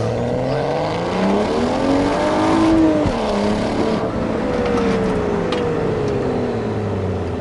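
BMW 335i's N55 turbocharged straight-six running as the car pulls away: the revs climb for about three seconds, drop sharply at a gear change, then rise briefly and fall away slowly as the car eases off.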